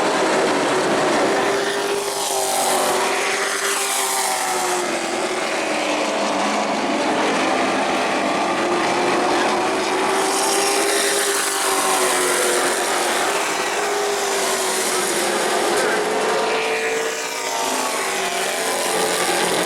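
Race trucks' engines running at speed around an asphalt oval, the engine pitch slowly rising and falling through the turns, with trucks passing by.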